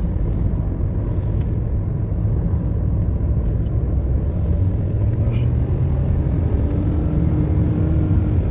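Car engine and tyre rumble heard from inside the cabin while driving, a steady low drone.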